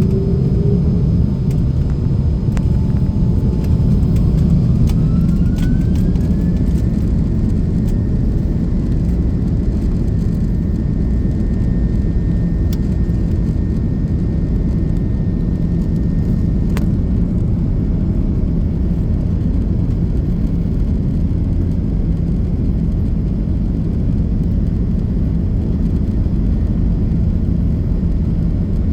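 Airbus A330-300 cabin sound during takeoff: the Rolls-Royce Trent 700 engines spool up under a steady, loud low rumble. A thin engine whine rises in pitch about four to seven seconds in, then holds. A few light clicks and rattles come through.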